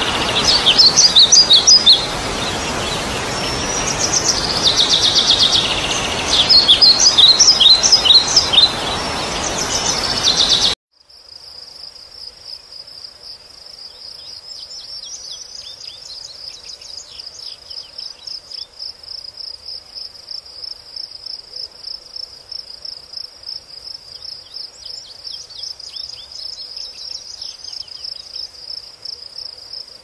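A lovebird chirping loudly in rapid high-pitched chirps and trills over a steady hiss; this cuts off abruptly about eleven seconds in. Then a quieter, steady, rapidly pulsing high insect trill runs on, with a few faint bird song phrases over it twice.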